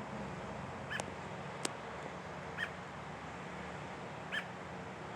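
American robin giving short chirp calls, three alike about every second and a half to two, over a faint steady low hum. A single sharp click sounds near the second chirp.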